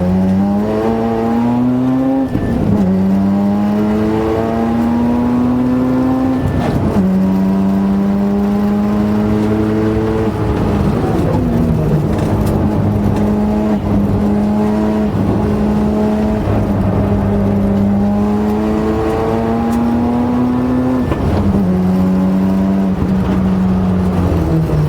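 Vehicle transmission making an abnormal noise: a loud whine that slowly climbs in pitch and then drops abruptly, about five times over, above the steady running of the vehicle.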